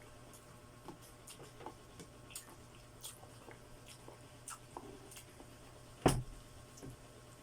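Close-up eating sounds of chewing chicken feet: small scattered clicks and wet squishes, with one louder knock about six seconds in.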